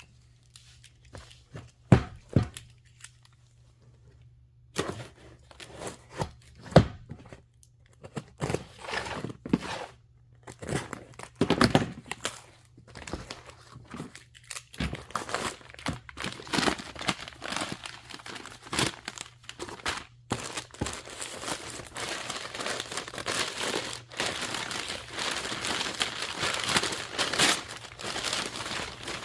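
Gift wrapping paper being handled, torn and crumpled as a present is unwrapped. At first there are scattered sharp knocks and rustles; from about halfway the tearing and crumpling becomes continuous.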